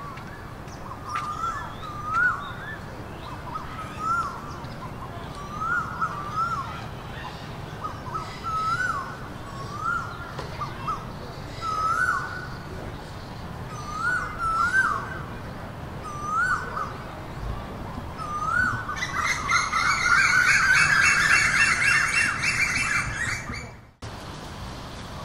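A bird repeats a short rising whistled call about every second or two. About two-thirds of the way in, a loud burst of many overlapping calls sets in, then cuts off abruptly near the end.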